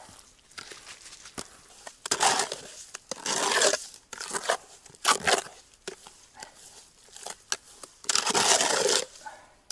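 Refractory fireclay mortar being stirred by hand in a bucket: irregular bursts of wet scraping and squelching, each under a second, the longest near the end.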